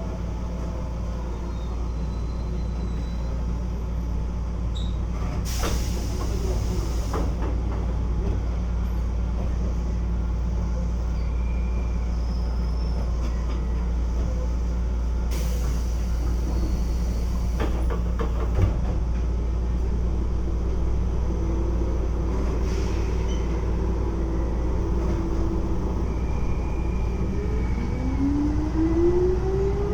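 Keisei 3400 series electric train running at speed, heard from on board: a steady low rumble of wheels on rail, with two bursts of hiss about 6 and 16 seconds in. Near the end comes a rising whine from the chopper-controlled traction equipment.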